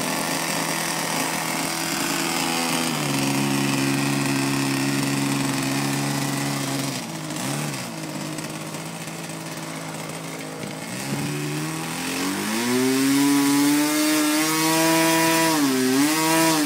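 Engine of a large radio-controlled model airplane running and being throttled: it drops back to a lower steady speed about three seconds in, dips briefly a few seconds later, then revs up about twelve seconds in and holds at high speed with a short dip near the end.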